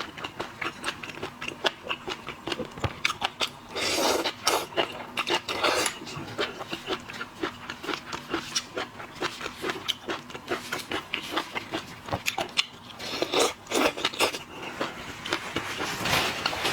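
Close-miked eating sounds of a person eating seafood: quick wet chewing and smacking clicks, with a few louder, noisier stretches about four, six and thirteen seconds in.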